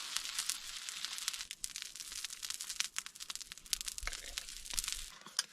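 Food sizzling over a campfire: a steady high sizzle full of sharp crackles and pops, which cuts off suddenly near the end.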